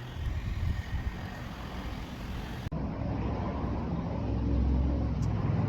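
Motor vehicle engine rumble close by, growing louder in the second half, with an abrupt change in the sound partway through.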